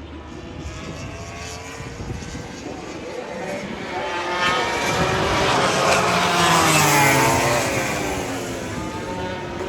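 MotoGP race bikes' four-cylinder engines passing at speed. The engine notes rise and fall in pitch, swelling to their loudest about seven seconds in and then fading away.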